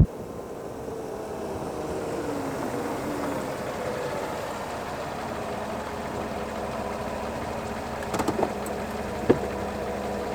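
Chevy Silverado pickup running at low speed, its engine note falling over the first few seconds and then holding steady. A few sharp clicks or knocks come about eight and nine seconds in.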